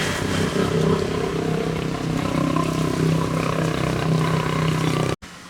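A motor running steadily with a strong, even hum, cut off abruptly a little after five seconds in.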